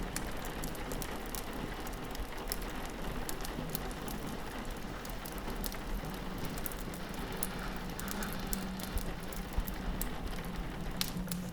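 Rain pattering steadily on a window, mixed with the crackle of a wood fire in a fireplace: many small sharp pops and ticks scattered over an even hiss.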